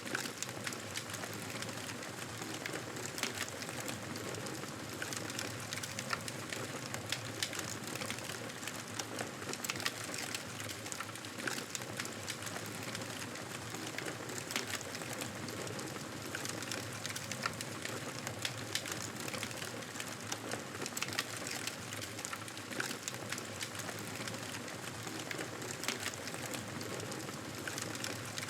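Wood fire crackling in a fireplace: a steady hiss with frequent irregular pops and snaps.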